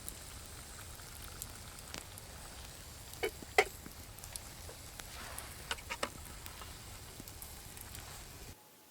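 Wood campfire crackling, with a few sharp pops around the middle; the sound drops away suddenly just before the end.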